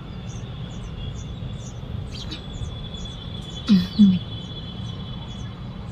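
Small birds chirping at a nest: a run of short high-pitched chirps, about two to three a second, over a steady high tone. Two short, louder low sounds come about two-thirds of the way in.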